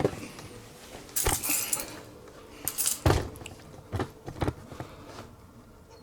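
Metal hooks clinking and knocking as they are handled and fitted, about five separate sharp clicks spread over several seconds.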